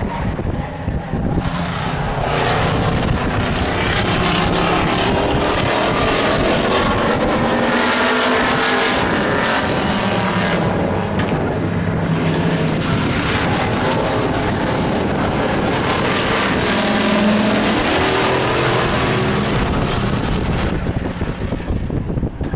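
Race trucks' engines running hard in a stock-truck feature race on a short oval, several engine notes rising and falling as the field laps, with wind on the microphone.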